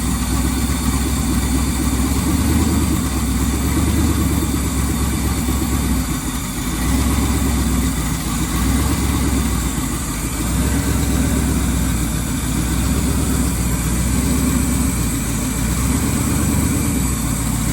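Twin-turbo engine of a 1981 Chevrolet Malibu idling with a pulsing low rumble that swells and eases a few times, its intake vacuum feeding the brake booster.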